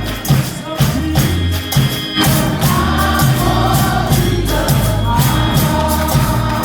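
Gospel music in church: a choir singing over bass and a steady percussion beat, the voices swelling about two seconds in.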